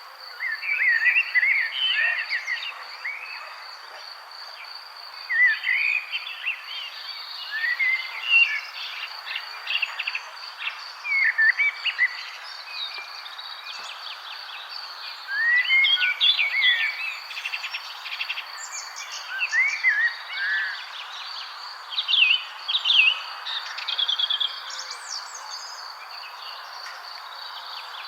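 Several wild songbirds singing and chirping in short, quick phrases, one after another, over a continuous high-pitched trill and a soft background hiss.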